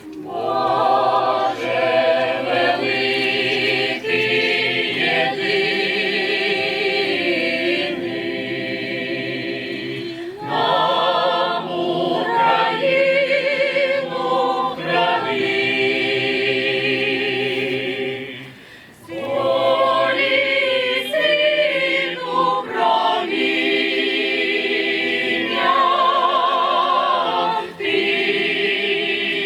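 A choir singing, several voices sustaining notes together with vibrato. It pauses briefly twice between phrases, about ten and eighteen seconds in.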